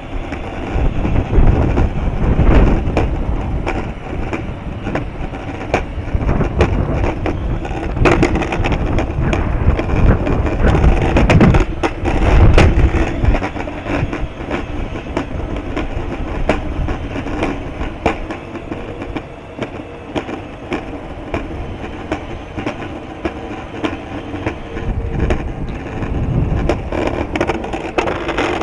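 Wind buffeting the microphone in heavy gusts. It runs over a steady rolling rumble with frequent small rattling clicks.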